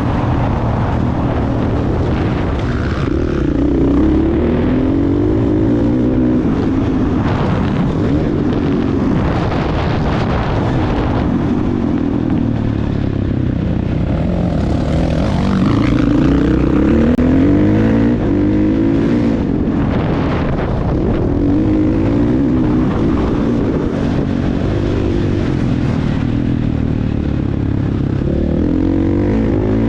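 Motocross dirt bike engine revving up and down over and over, its pitch rising and falling every second or two as the throttle is worked.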